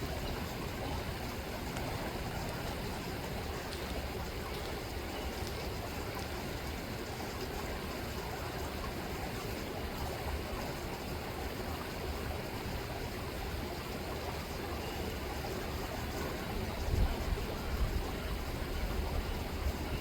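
Rippling river water making a steady, even rush, with a few brief low bumps in loudness near the end.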